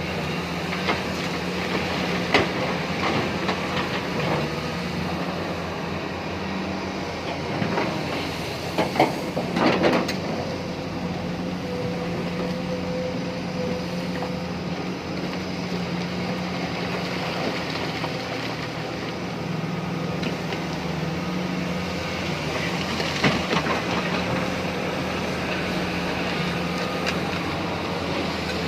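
Tata Hitachi Zaxis 870 LCH excavator's diesel engine running steadily with a constant hum, with a cluster of clanks and knocks about eight to ten seconds in and a few more about 23 seconds in.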